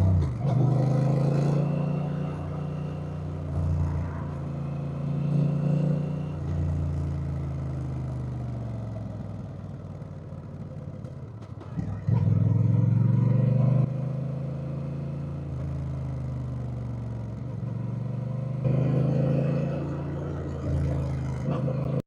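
Honda Rebel 1100's parallel-twin engine under way, its pitch rising and falling as it revs through gears. It eases off and drops low a little before the middle, then comes back on the throttle sharply about halfway through, louder for a couple of seconds.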